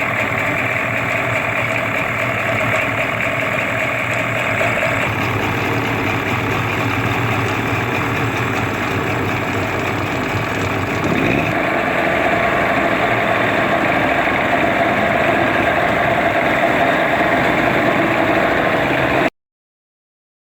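Tohatsu M15A two-stroke twin outboard motor running steadily on a test run after a rebuild with new piston rings. About eleven seconds in its speed picks up a little and it gets louder; near the end the sound cuts off suddenly.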